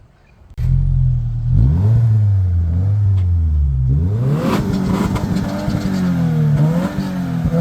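2025 Subaru WRX's turbocharged 2.4-litre flat-four starting about half a second in, flaring up, settling to idle and then being revved a few times. It runs with its rear mufflers removed, yet still sounds muffled, no different from stock, because of the large front muffler.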